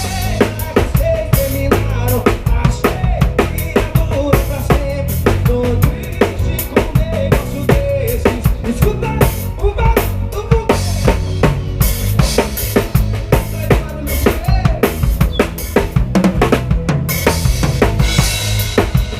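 Live band playing an instrumental passage, with the drum kit up front: a steady beat of bass drum, snare and rimshots under a melodic instrument line.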